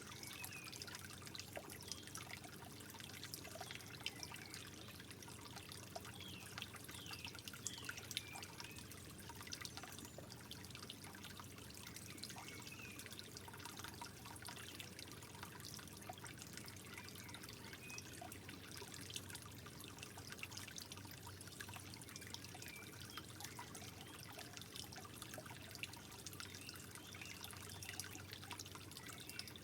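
Water trickling and dripping steadily, with many small plinks and bubbling droplets.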